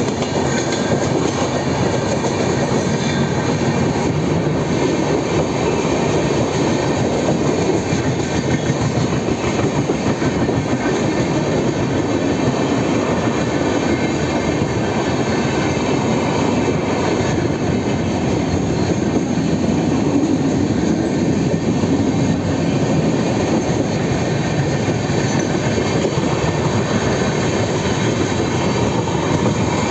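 Steady, loud running noise of two trains at speed on parallel tracks: a Mumbai suburban local train and an express's coaches, wheels running on the rails.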